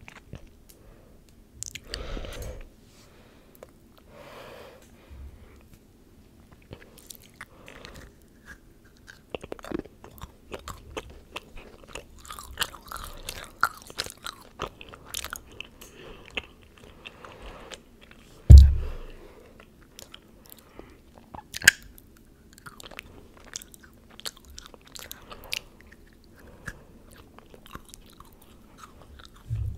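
Moulded chocolate being bitten and chewed close to a microphone: crisp little snaps and wet mouth sounds. A single heavy thump, the loudest sound, comes about two-thirds of the way through.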